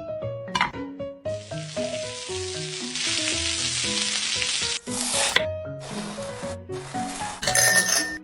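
Food sizzling and frying in a hot pan, over a light, bouncy background tune. The sizzle starts about a second in and runs steadily for about three and a half seconds, then comes back in several shorter stretches that cut in and out.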